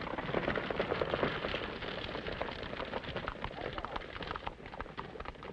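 Horse hooves stamping and scuffling irregularly as an unruly horse acts up, over a crackly, hissy old film soundtrack.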